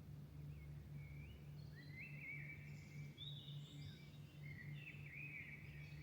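Faint dawn birdsong: several short warbling phrases with quick pitch glides, busier in the second half, over a steady low hum.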